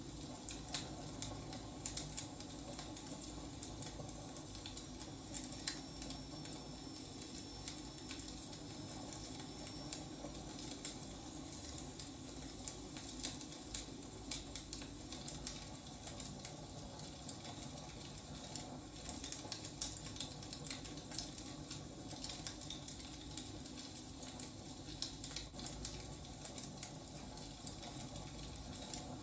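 Firewood burning: a steady crackle with irregular sharp pops and snaps over a low rumble.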